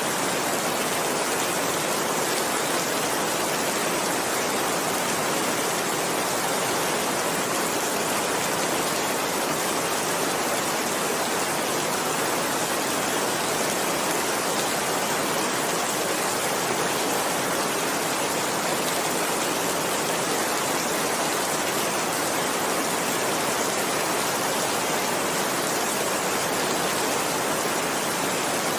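Heavy rain falling steadily, an even unbroken hiss with no thunder or individual drops standing out.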